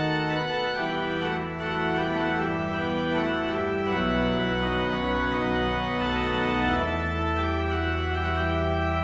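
Organ playing the closing postlude: sustained full chords over deep bass notes, the harmony changing every few seconds.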